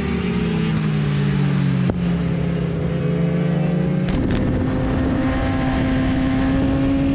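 Motorcycle engine running, its note falling for about two seconds as the bike slows. After a sudden change about four seconds in, a steady engine note rises slowly in pitch.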